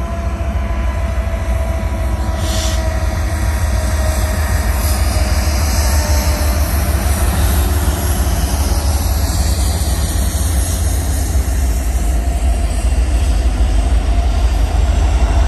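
Several diesel locomotives of a double-stack intermodal freight train passing close by with their engines running, followed by the container-laden well cars rolling over the rails. A steady heavy rumble that grows slightly louder as the train goes by.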